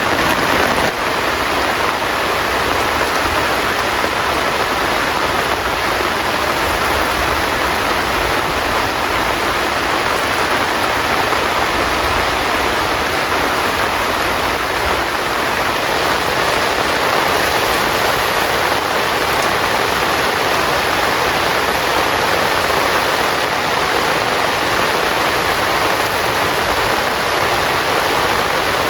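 Heavy rain falling steadily: a dense, even hiss of rain without a break.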